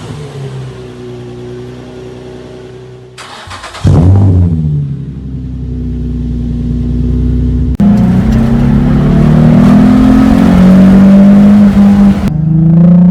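Nissan 350Z's VQ35DE V6 heard through its exhaust in several short spliced clips: running steadily, then a sudden loud burst that falls back, then louder revving with the pitch rising and falling.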